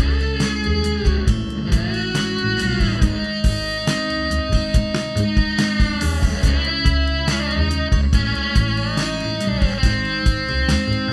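Live rock band playing an instrumental passage: electric guitar lines with notes bending and sliding in pitch, over drums and upright bass.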